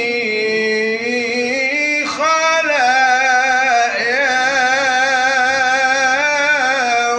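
A solo male voice chanting an ibtihal, an Islamic devotional supplication, drawing out the end of a line in long melismatic notes with wavering ornaments. There are two long phrases, with a short breath about two seconds in.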